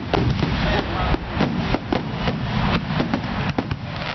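Aerial firework shells bursting in quick succession: sharp bangs about three or four a second over a continuous low rumble.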